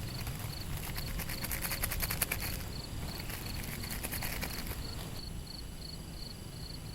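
An insect chirping steadily, about three to four short high chirps a second, over a low outdoor rumble. Two bursts of rapid crackling and rustling stand out as the loudest sound, in the first five seconds.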